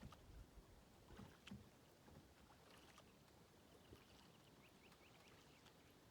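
Faint kayak paddling: a few soft paddle splashes and knocks on the water in the first second and a half, then quiet drips with a short run of faint high chirps a little past the middle.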